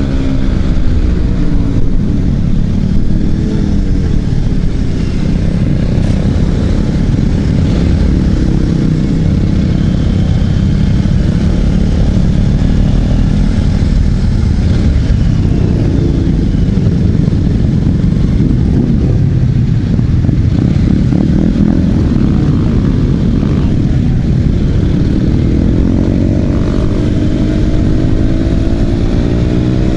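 Motorcycle engine running while riding, loud and steady. Its note rises and falls with the throttle in the last few seconds.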